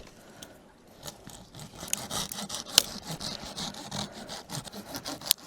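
Hand saw cutting through a firewood branch too thick to snap, with back-and-forth strokes starting about a second in and a few sharp clicks among them.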